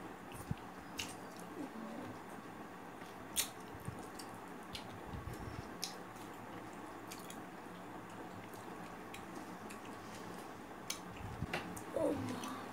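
Close-miked eating sounds: a person chewing rice, dal and goat meat, with scattered wet clicks and mouth smacks every second or so.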